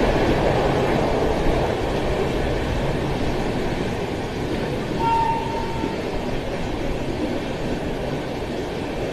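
Passenger train running along the track, heard from the side of a moving coach: a steady rumble of wheels on rails, with a brief high-pitched tone lasting about a second about halfway through.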